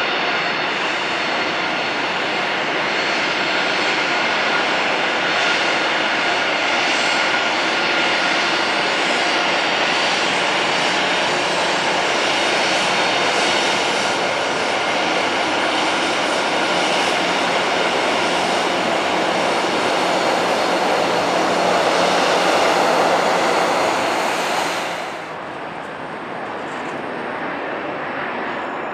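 Boeing 737-800's CFM56 jet engines running at taxi power: a steady whine over a hiss, growing slightly louder, then cut off abruptly about 25 seconds in. After that comes fainter jet noise from another airliner.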